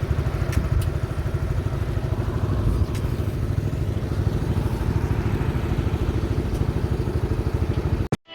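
Motor scooter on the move: a steady engine-and-road rumble, heavy in the low end, that cuts off suddenly near the end.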